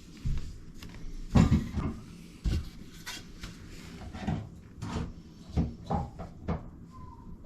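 A series of about a dozen irregular knocks and clunks, the loudest about a second and a half in.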